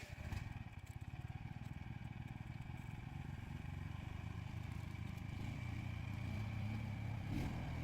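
A vehicle's engine running steadily with a fast, even low pulsing, slowly getting louder.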